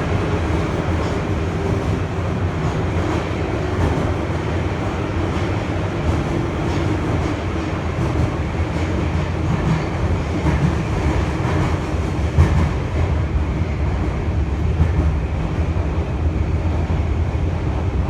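Running noise inside a Nagoya subway N1000 series car with Mitsubishi IGBT inverter drive, heard in the tunnel: a steady low rumble of wheels on rail, with one louder knock about twelve seconds in.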